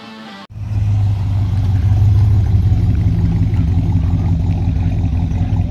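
A car engine running steadily at an even, low pitch. It starts suddenly about half a second in.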